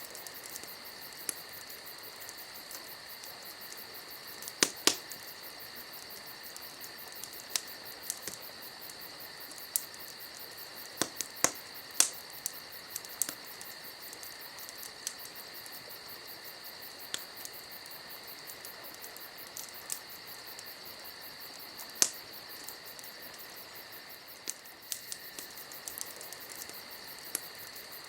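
Campfire crackling, with sharp pops at irregular intervals, a few much louder than the rest, over the steady high chirring of crickets.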